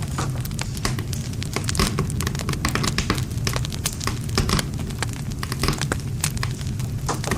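Wood fire burning with dense, irregular crackling and popping over a steady low rumble of the flames.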